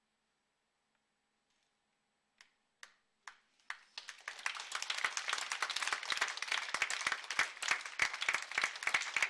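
Audience applause starting from near silence: a few scattered claps about two and a half seconds in, quickly swelling into full, steady applause.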